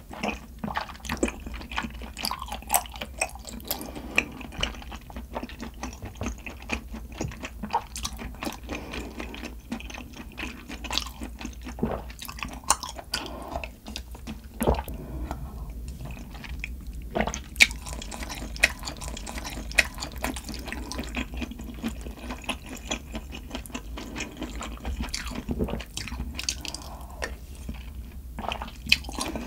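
Close-miked mukbang eating of malatang: wet chewing and slurping of the noodles and broth, with many small, irregular sharp clicks and smacks.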